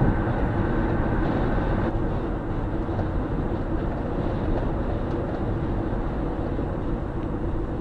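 Steady road and engine noise inside a moving car's cabin, with no other distinct event. Some of the higher hiss drops away about two seconds in.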